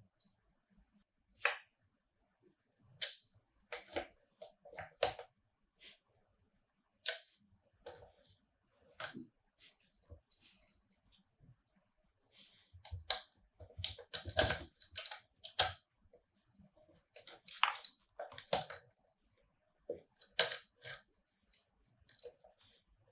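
Scattered sharp clicks and small metallic knocks of a fingerprint lock being handled and worked, in uneven clusters with short silences between.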